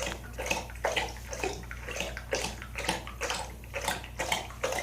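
A very thirsty dog lapping water in quick, even laps, about three to four a second.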